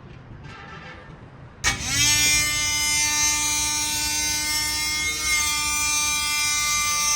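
An electric power tool's motor switched on about a second and a half in, spinning up quickly to a steady high whine that holds.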